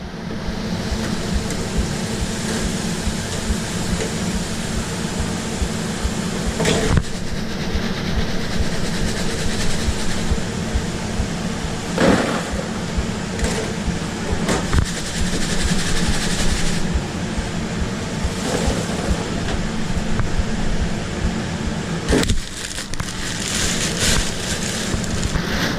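Steady hum and hiss of a food truck's kitchen at work, from grill and fryer sizzling and extraction running, with a few sharp knocks scattered through it.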